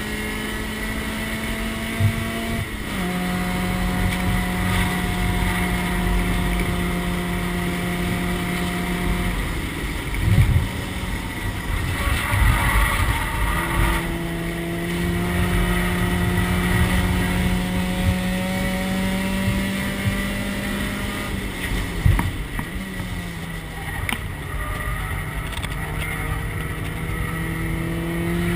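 Race car engine heard from inside the stripped cabin, running at steady high revs with its pitch creeping up through long stretches; the note drops a few seconds in, falls away for a few seconds near the middle, and dips again about 22 s in. A few sharp knocks from the car come through along the way.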